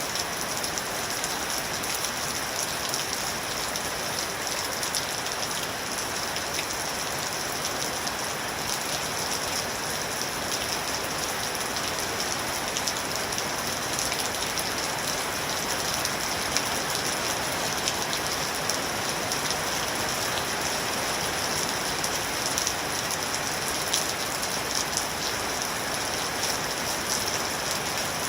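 Steady rain falling and pattering on a surface, with many small drop taps over an even hiss.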